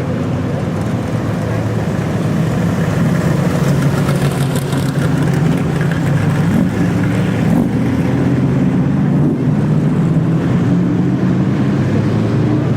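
Car engines running as a line of cars drives slowly past, a low steady engine note with an engine's pitch rising and falling briefly about halfway through.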